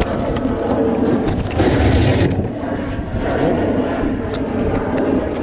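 Wind buffeting the microphone on a sailboat under way, a steady rumble with a louder gust about two seconds in.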